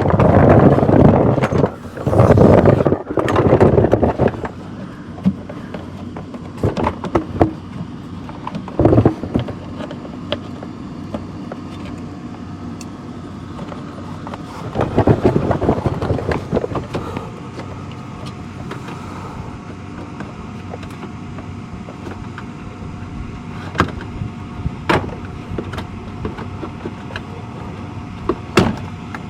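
Hand work on a car's underside: bursts of scraping and rattling near the start and again about halfway, with scattered sharp clicks and knocks from tools and plastic parts, over a steady low hum.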